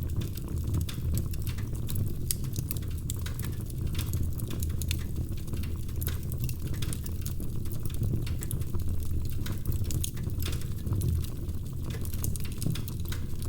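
Wood fire crackling: frequent, irregular sharp pops and snaps over a steady low rush of flame.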